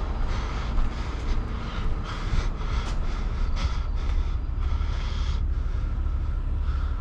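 Large truck engine idling steadily, a low even rumble, with irregular short hissy bursts over it.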